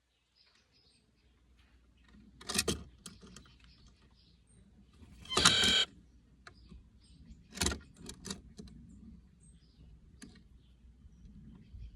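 Plush-crested jay calling: one loud call of under a second about halfway through, with shorter sharp notes before and after it.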